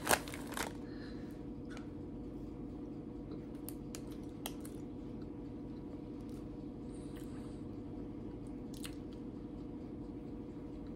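Quiet chewing of a soft, strawberry-filled snack cake, with a few faint mouth clicks over a steady low hum.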